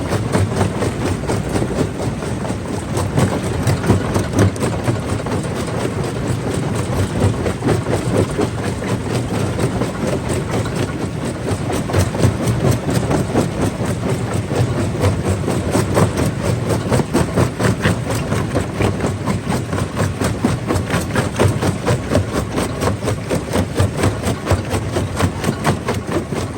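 Stone crusher running steadily under load, a low machine rumble with a rapid, dense stream of cracks and knocks from rock being broken.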